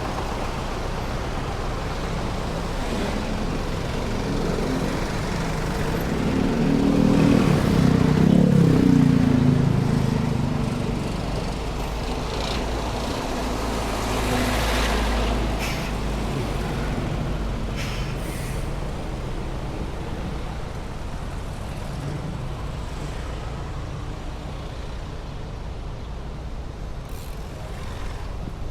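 Steady heavy road traffic on a busy city street. A large vehicle's engine passes close and loud a few seconds in, its pitch falling as it goes by, and a few short sharp noises come later.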